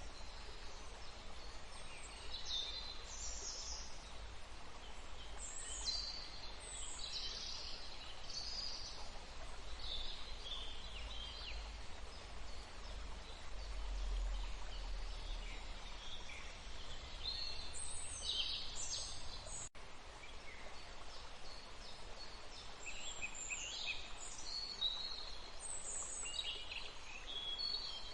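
Birds chirping and calling in short, high bursts throughout, over a faint steady hiss of running water and a low rumble.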